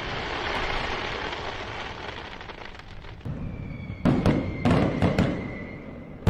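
Fireworks: a dense crackling hiss for the first half, then a steady high whistle and several sharp bangs close together in the second half.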